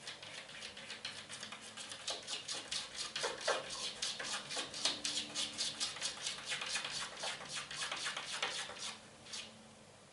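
A cat's claws scratching and tapping rapidly against window glass: a fast run of small sharp clicks, about five a second, that stops about a second before the end.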